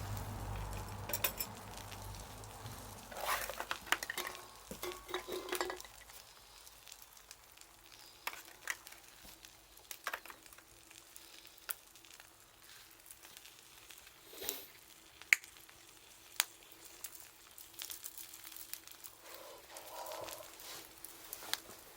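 Wood fire crackling, with scattered sharp pops and snaps over a faint hiss. A low rumble dies away over the first few seconds.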